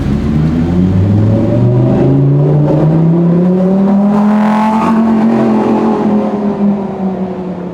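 Lamborghini engine accelerating as the car pulls away, rising steadily in pitch for about five seconds, loudest near the middle, then holding a steady note.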